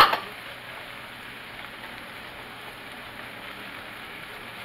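Chicken breasts, chopped onion and minced garlic sizzling steadily in butter in a frying pan. A brief clack of the spatula against the pan right at the start is the loudest sound.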